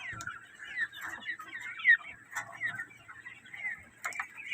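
Caged quail chirping: many short, high chirps that fall in pitch, repeating one after another, with a few light clicks from the birds being handled.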